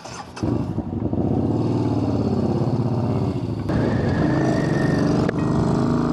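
2014 Yamaha Bolt XV950's air-cooled V-twin engine pulling away and running under throttle. The engine note shifts about three and a half seconds in.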